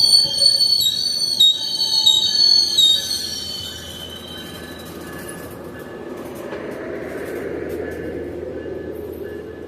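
Passenger train wheels squealing on the rails with shrill, shifting tones for about three seconds, then fading into the rumble of the train rolling by.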